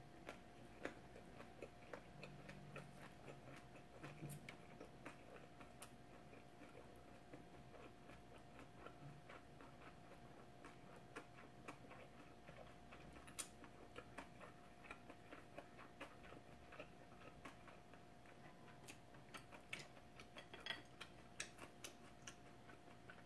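Faint chewing and mouth clicks while eating kimbap, a scatter of small irregular ticks with one sharper click about halfway, over a faint steady hum.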